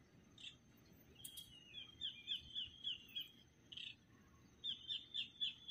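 A small songbird singing: two runs of quick, high, falling notes, about four a second, with a pause of a second or so between them.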